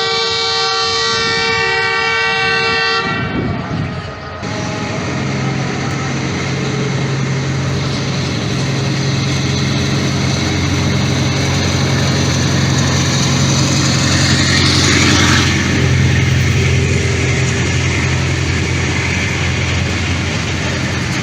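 A Pakistan Railways diesel locomotive's horn sounds one held two-tone blast that cuts off about three seconds in. Then the locomotive's engine runs with a steady low roar as the train rolls slowly into the station, with rail noise swelling around the middle.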